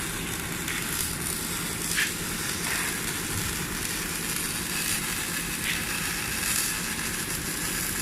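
CO2 (MIG) welding arc running steadily on a truck container's floor, a continuous noisy sizzle with a few brief knocks.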